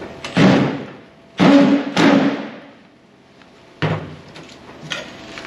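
Three loud knocks in quick succession about half a second, a second and a half and two seconds in, each dying away over about half a second, with a further knock near four seconds.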